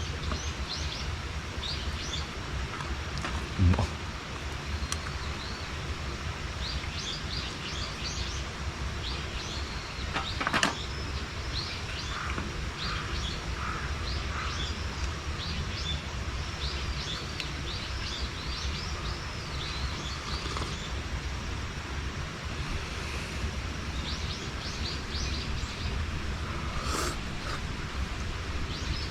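Small birds chirping on and off over a steady low rumble, with a couple of short knocks about four and ten seconds in.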